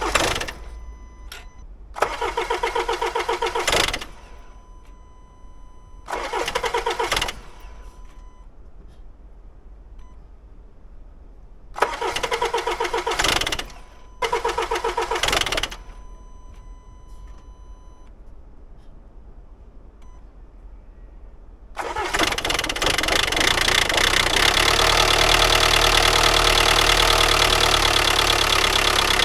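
Range Rover diesel engine cranked from dead cold: the starter turns it over in several short bursts without it firing, then about 22 seconds in it catches and runs loudly. The cold-start noise is what the mechanics take for the timing chain tensioner, before oil pressure builds to work it; the chains were replaced only months earlier, so it could be a failed part. The failure to fire is down to a glow plug communication fault.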